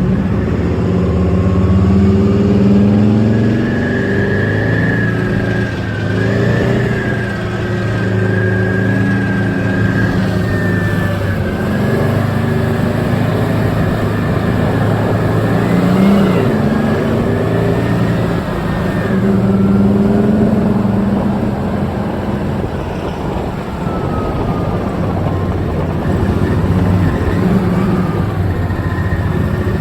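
Tank's diesel engine running under way, heard from aboard, its pitch rising and falling as the throttle changes, with a high whine over it.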